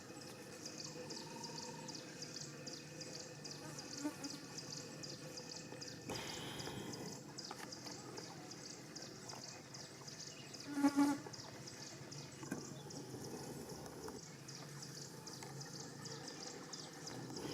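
Outdoor insect chirping: a fast, even series of high chirps that fades out about six seconds in. A single brief pitched call stands out about eleven seconds in.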